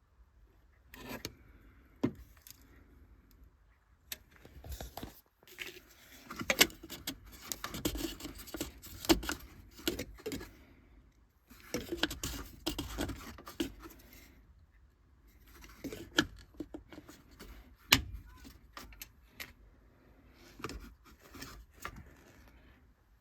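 Small metal objects clinking and rattling in irregular bursts, with a few sharp clicks, as when tools or parts are handled.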